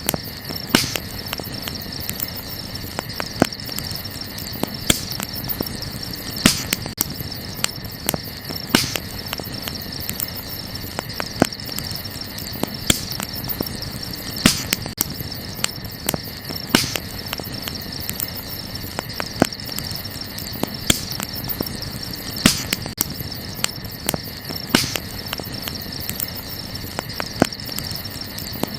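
Wood campfire crackling, with sharp pops every second or two, over a steady high-pitched chirring of crickets.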